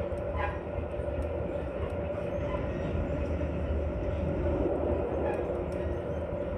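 Metra commuter train in motion heard from inside a passenger car: a steady low rumble with a constant hum over it.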